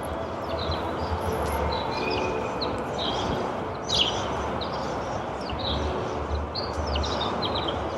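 Steady outdoor background noise, a broad even rumble with a low hum, with birds chirping in short calls scattered throughout.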